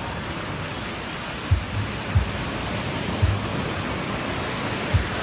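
Sea surf washing steadily onto the shore, with wind buffeting the microphone in four short low thumps.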